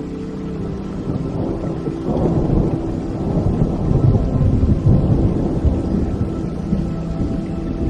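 Rolling thunder: a deep rumble that builds about two seconds in, is loudest in the middle and eases off near the end, over steady rain. Soft background music with held notes plays underneath.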